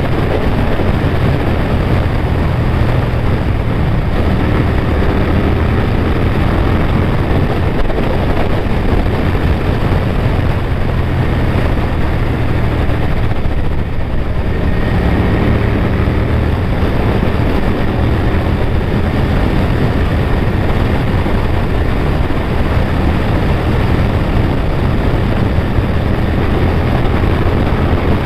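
Honda VTR1000F Firestorm's V-twin engine running hard while the bike is ridden, with a brief dip in the sound about halfway through.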